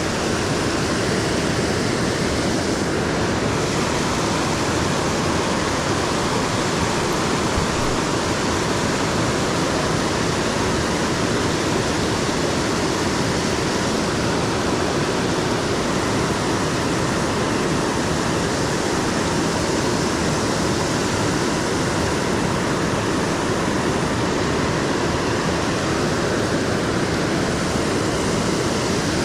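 Steady rush of fast-flowing creek water below a dam, mixed with rain, as an even, unbroken hiss.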